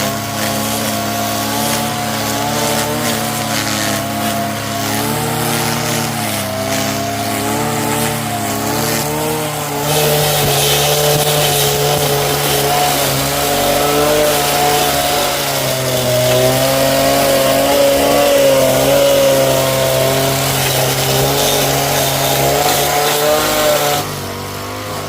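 An engine running steadily, its pitch wavering slightly as if under changing load. It gets louder and harsher about ten seconds in, then drops back near the end.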